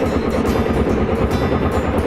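Lanz Bulldog D3606's single-cylinder diesel engine running with a rapid, even beat, under background music.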